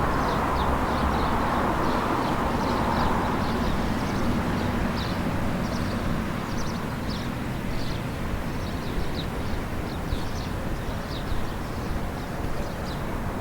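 Street ambience with a steady low rumble: a vehicle passing and fading away over the first few seconds, while birds chirp in many short, high calls throughout.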